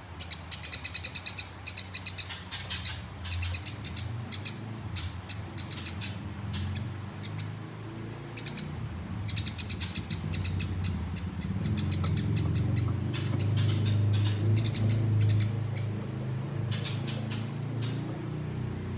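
Eurasian tree sparrows chattering in quick, dense runs of high chirps, the excited squabbling calls of sparrows fighting. A steady low hum runs underneath and grows louder in the second half.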